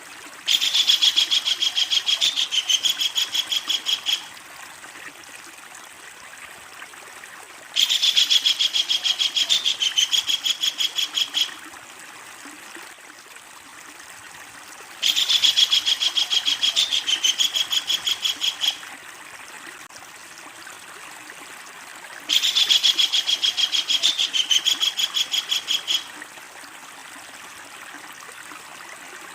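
Kingfisher giving its long, loud chattering call four times, each bout a few seconds of rapid repeated high notes, over a steady background hiss.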